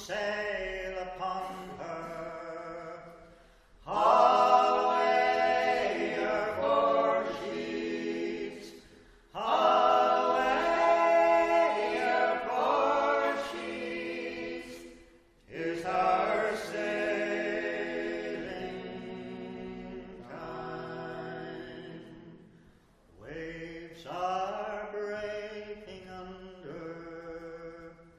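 A group of voices singing a sea shanty unaccompanied, in phrases of a few seconds with short breaths between them.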